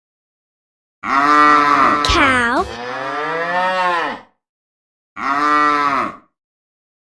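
Cow mooing: one long low moo that dips in pitch partway through, followed by a second, shorter moo.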